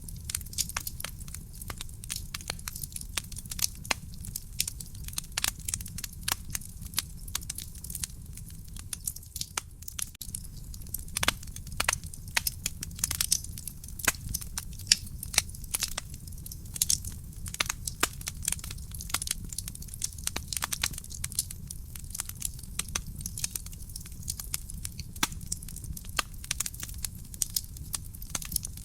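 Wood fire burning in a fireplace: a steady low rumble of flames with constant, irregular sharp crackles and pops from the burning logs.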